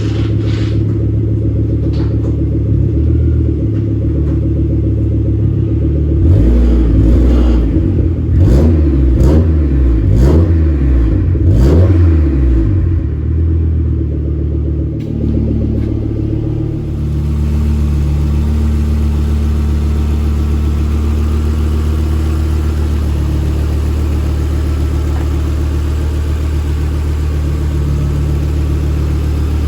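Volvo 740's swapped-in turbocharged five-cylinder T5 engine through a 3-inch exhaust with two mufflers, idling, then revved several times in quick succession about six seconds in. It drops back and settles into a steady idle for the second half.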